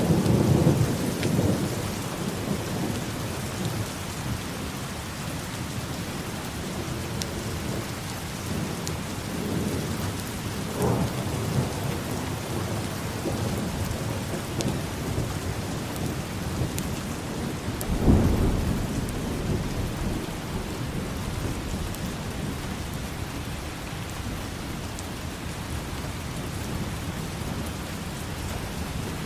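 Steady rain falling, with rolls of thunder: a low rumble at the start, a smaller one partway through, and a sharper clap about two-thirds of the way in that rumbles away.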